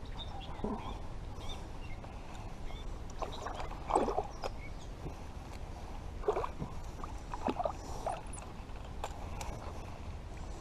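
Small splashes and knocks of water and gear around a kayak, scattered irregularly over a low steady rumble.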